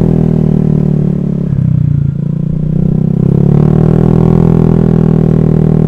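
Honda Vario scooter's single-cylinder engine running as it is ridden. The engine note sags about a second and a half in, then rises back to a steady pitch past the middle.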